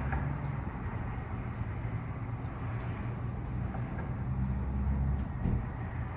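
Steady low rumble of a motor vehicle engine running, growing heavier for about a second around four seconds in.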